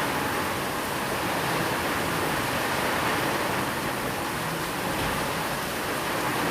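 Steady rainfall, a dense and even hiss with no distinct drops or thunder standing out.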